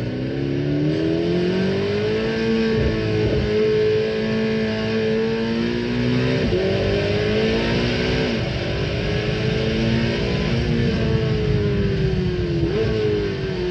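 2025 Corvette ZR1's twin-turbo 5.5-litre flat-plane-crank V8 (LT7) being driven hard on a track, its pitch climbing and falling again and again, with a quick sharp dip in the engine note about four times.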